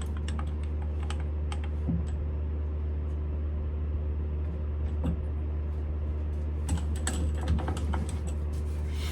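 Smithy CB-1220XL 3-in-1 lathe running with a steady hum, facing the end of a transmission fill-plug nut, with scattered light clicks and ticks that grow busier about seven seconds in.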